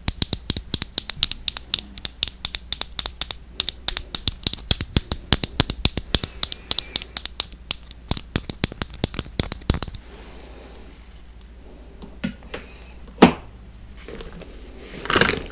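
Rapid tapping on makeup packaging, several quick sharp taps a second, which stops about ten seconds in; after that only a few single taps and a light rustle.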